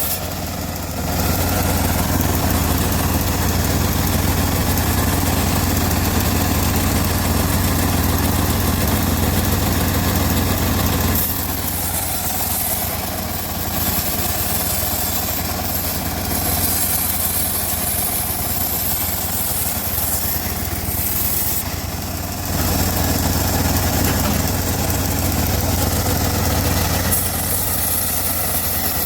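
Homemade bandsaw mill running steadily, with its engine and blade noise growing heavier and louder for two long stretches: in the first ten seconds or so, and again from about two-thirds of the way through.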